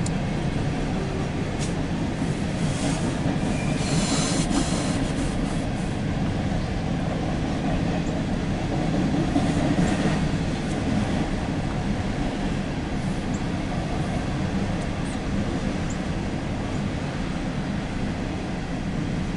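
Empty CSX coal train of hopper cars rolling steadily past, a continuous noise of wheels on rail, with brief high wheel squeals about four seconds in and again near ten seconds.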